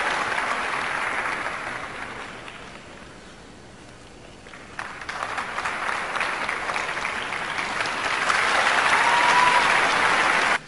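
Arena audience applauding: the clapping thins out a couple of seconds in, picks up again and grows louder, then stops abruptly.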